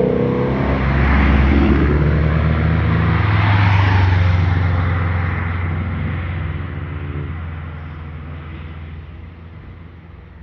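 A car's engine and exhaust driving past, loud for the first few seconds, then fading steadily as it pulls away.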